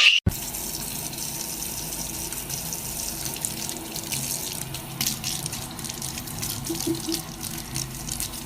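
Steady running water, as from a tap.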